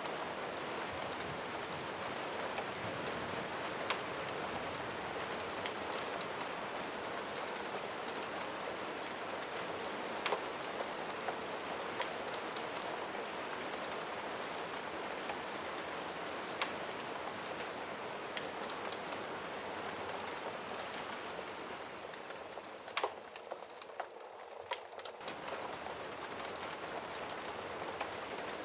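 Steady rain, an even hiss of falling rain with scattered sharp ticks of individual drops. About three quarters through, the rain thins for a couple of seconds, leaving a few louder ticks, then fills back in.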